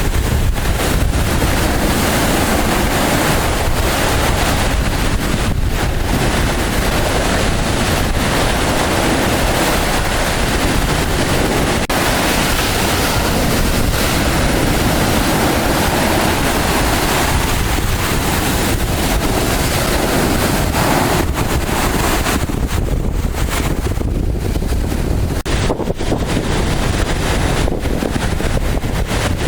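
Rough sea surf breaking under strong wind, with gusts buffeting the microphone into a steady loud rushing roar with heavy low rumble.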